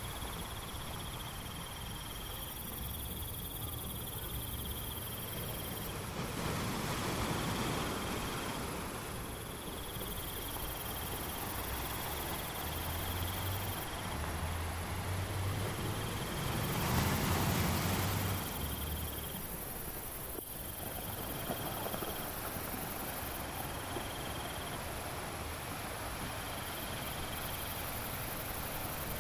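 Insects, crickets by their sound, trilling on one high steady note that starts and stops every few seconds, over a constant natural hiss that swells twice, about a third of the way in and again past the middle.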